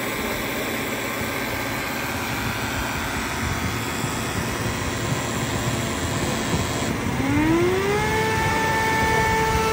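ILIFE W90 wet-dry floor cleaner's motor running steadily. About seven seconds in, a second whine rises in pitch over about a second, then holds at a steady pitch.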